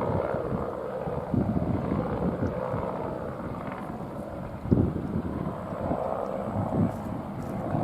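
Airbus AS350 helicopter flying at a distance, a steady rumble under uneven gusts of wind buffeting the microphone, with a stronger buffet near the middle.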